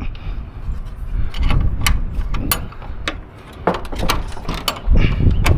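Metal clinking and clanking of hand tools and truck parts being handled: a quick, uneven run of sharp clicks and knocks over a low rumble, loudest near the end.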